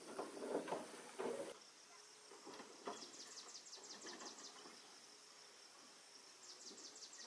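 An insect chirping outdoors in quick, high-pitched pulses, about eight a second, in two runs, one near the middle and a shorter one near the end. A few brief rustling or scraping noises come in the first second or so.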